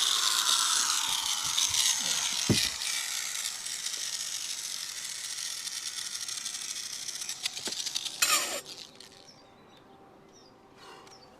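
Angle grinder fitted with a flap disc sanding a fibreglass roof: a steady high grinding noise that cuts off about eight and a half seconds in.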